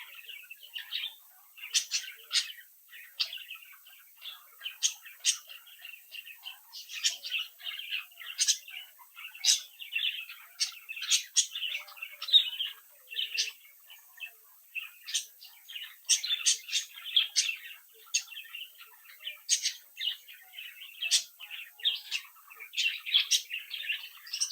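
Young budgerigars chattering and warbling, with frequent sharp high chirps over a steady busy chatter.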